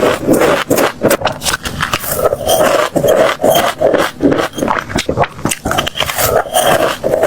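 Close-miked chewing of crunchy food: a quick, irregular run of crisp crunches, over and over.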